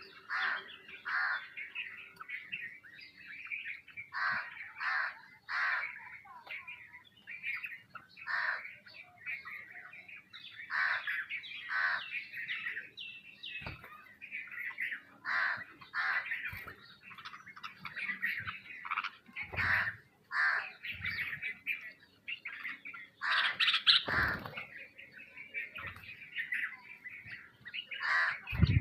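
Sparrows chirping, with many short, repeated chirps coming one after another and overlapping. There are a few soft low thumps among them.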